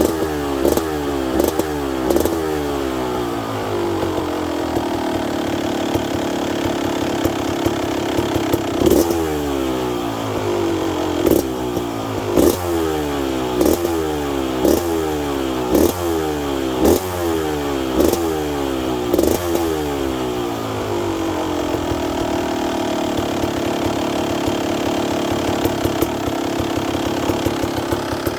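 Kawasaki KX250's two-stroke single-cylinder engine, cold and freshly started after three years of sitting, blipped repeatedly on the throttle: each rev jumps up sharply and falls back. It settles to a steady idle at about four seconds and again from about twenty seconds.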